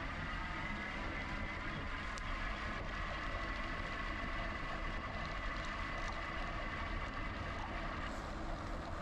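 GoCycle GX electric bike under way: a steady whine from its motor over wind rush on the microphone and low tyre rumble. The whine eases about eight seconds in.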